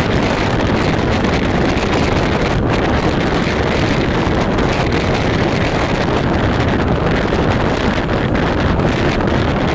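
Loud, steady wind rushing over the microphone, mixed with the running noise of an EMU suburban train moving at speed.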